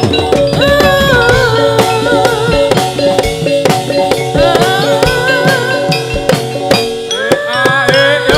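Live Javanese gedruk folk dance music: fast, dense drumming under a wavering melody line that slides and bends in pitch.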